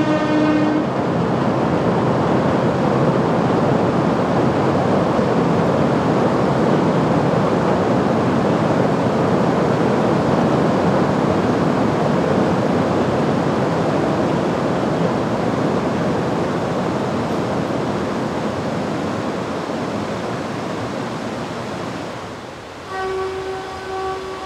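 Kurobe Gorge Railway trolley train running over the steel railway bridge: a steady rumbling rush that slowly fades. The tail of a train horn ends in the first second, and a horn sounds again near the end.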